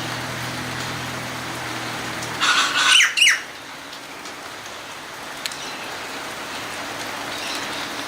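Steady rain falling. About two and a half seconds in, a cockatoo gives a loud, harsh squawk lasting about a second.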